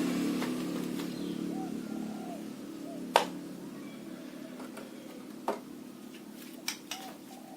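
A motor's low hum fading away, with a few sharp clicks or taps, the loudest about three seconds in.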